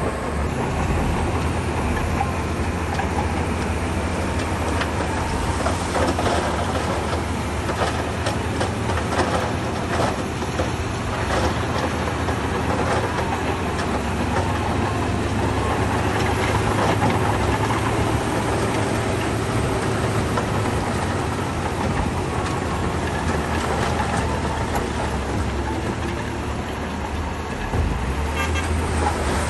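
A Shantui crawler bulldozer's diesel engine running steadily under load, a deep drone, with scattered knocks and clatter as it pushes stone.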